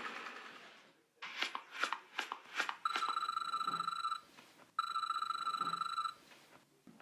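A few quick clicks, then two long, steady electronic beeps of the same pitch, each lasting over a second with a short pause between them.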